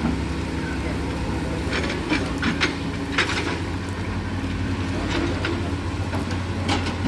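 Heavy diesel engine running steadily, with a few sharp clanks and knocks about two to three seconds in and again near the end.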